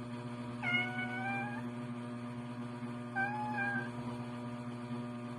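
Domestic cat meowing twice, a drawn-out meow about a second in and a shorter one around three seconds, over a steady low electrical hum. The cat is begging for food.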